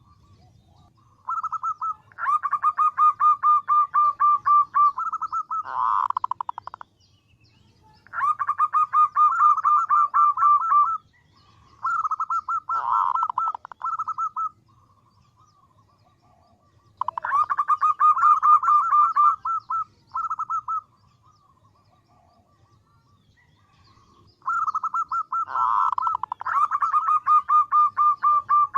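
Female zebra dove (perkutut) calling in bouts of rapid pulsed cooing notes. About five bouts, each a few seconds long, are separated by short pauses. It is a female's call to attract a male.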